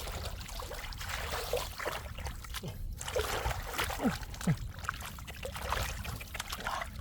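Shallow floodwater splashing and trickling in many small irregular splashes over a steady low rumble of moving water.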